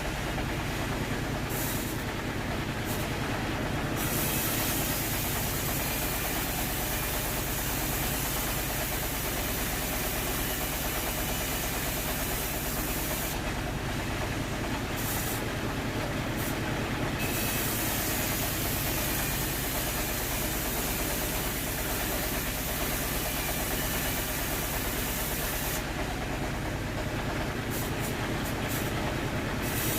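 Sawmill machinery running steadily: a continuous mechanical drone with hiss, unchanging in level, with no distinct cuts or impacts.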